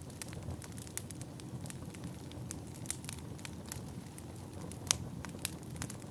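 Firewood burning: a steady low rumble of the fire with irregular crackles and sharp pops, the loudest pop about five seconds in.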